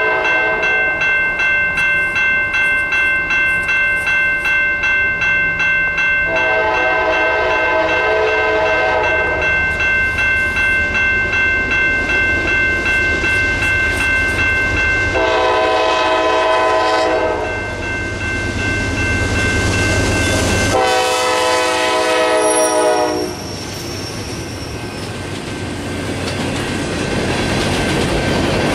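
A freight train led by two GE Dash 8 diesel locomotives approaching and passing. A bell dings steadily about twice a second. The locomotive horn sounds three long blasts, about 6, 15 and 21 seconds in. Near the end the passing cars rumble and clatter over the rail joints.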